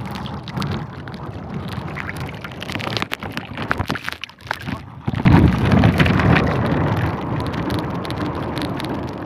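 Strong wind buffeting the microphone over a crackling, spattering hiss, with a louder gust rumbling from about five seconds in.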